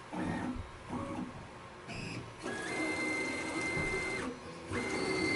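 Onefinity CNC's stepper motors whining steadily as the gantry is jogged into position. One move lasts about a second and a half, then after a short pause a second move starts.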